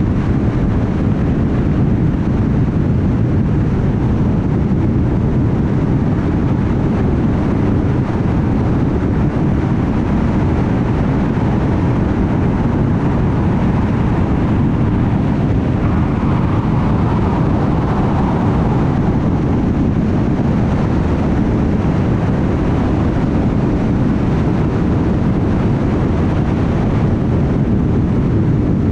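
Steady road noise of a car cruising at highway speed: tyre roar and engine drone, heaviest in the low end. A faint higher hum rises over it for a few seconds just past the middle.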